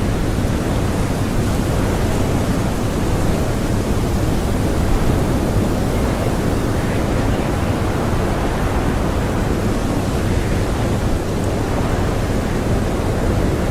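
Strong blizzard wind blowing in a steady, dense rush with no gusts or breaks.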